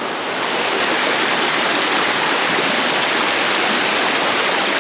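Small mountain creek running over rocks: a steady, even rush of water that swells a little in the first second.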